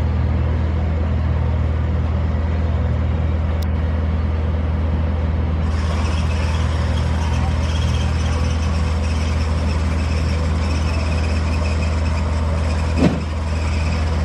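Construction machinery engine running steadily with a low hum. A hiss joins about halfway through, and a short thump comes near the end.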